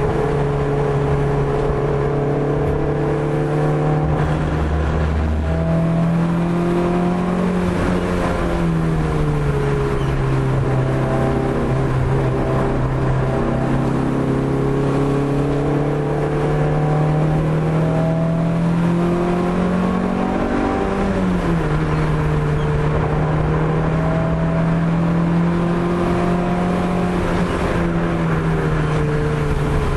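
Opel Corsa A GSi's four-cylinder engine pulling under load, its note climbing slowly through the revs. It drops in pitch twice, at gear changes about a third of the way in and again about two-thirds in.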